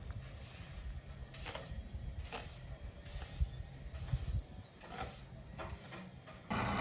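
Rhythmic scraping strokes with a hiss, about one a second, typical of work at a well. Near the end a louder, steady machine sound starts suddenly.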